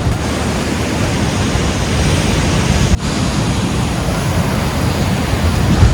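Steady rush of wind buffeting the microphone over the wash of surf, with a brief dip about halfway through.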